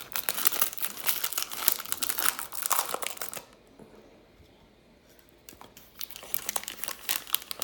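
Hockey card pack packaging crinkling as it is handled and opened, in two spells with a quieter pause of about two seconds between them.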